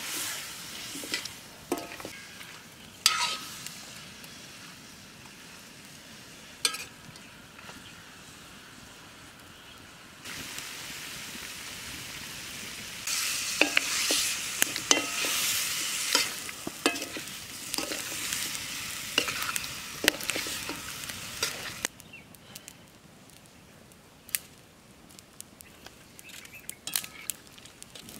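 Mutton curry frying in a pot, sizzling, while a spoon stirs it with scattered clicks against the pot. The sizzle jumps louder about ten seconds in and drops away about twenty-two seconds in.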